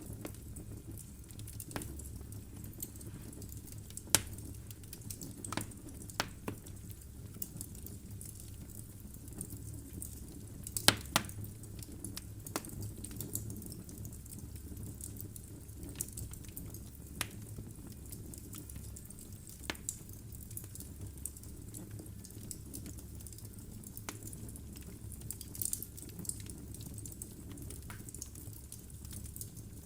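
Wood fire burning in a fireplace: a low steady rumble of flame with irregular sharp crackles and pops from the logs, a few louder snaps about four and eleven seconds in.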